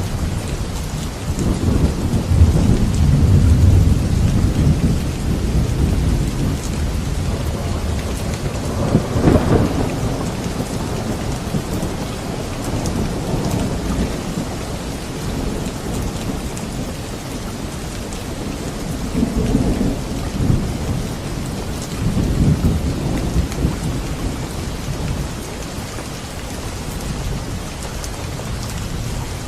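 Steady heavy rainfall with rolling thunder rumbling underneath, swelling several times: near the start, about a third of the way in, and twice past the middle.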